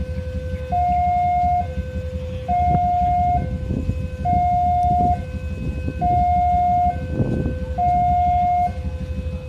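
Electronic two-tone warning signal alternating high and low, each tone held a little under a second, over a steady low rumble.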